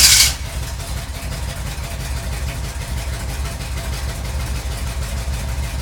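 1986 Chevrolet Monte Carlo engine fired by remote start: a brief loud flare as it catches right at the start, then it settles into a steady, low idle.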